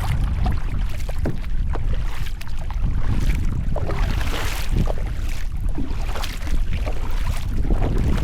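Kayak paddle strokes splashing and swishing in the water, irregular short splashes, over a steady low rumble of wind on the microphone.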